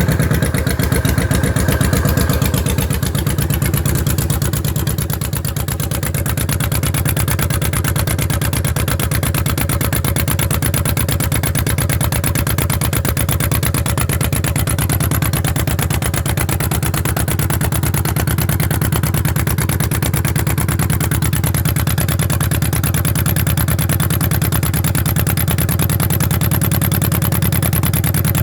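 Honda VTX1800F's V-twin engine idling through a custom aftermarket exhaust, just after being started. It runs a little louder for the first couple of seconds, then settles into a steady, even idle.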